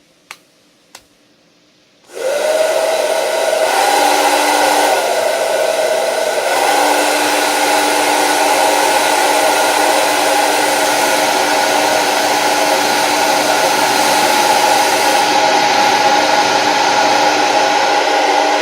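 Two clicks, then a handheld hair dryer starts about two seconds in and runs with a loud, steady rush of air and motor whine. The whine's pitch shifts up and down a couple of times early on as the speed and heat settings are changed, then holds steady.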